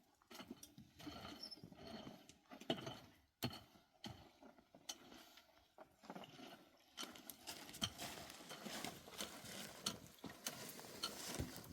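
Scattered, irregular knocks and clicks with some scraping between them, as of hard objects striking stone or rock.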